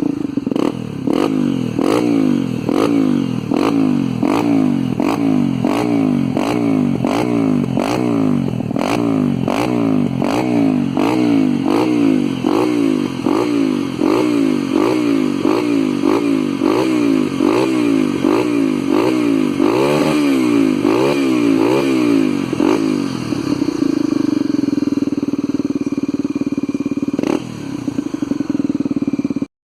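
Honda XR 250 Tornado's single-cylinder four-stroke engine through a full stainless-steel Hurricane sport exhaust, its throttle blipped over and over, about one and a half revs a second. Near the end it settles to a steadier idle, then stops abruptly.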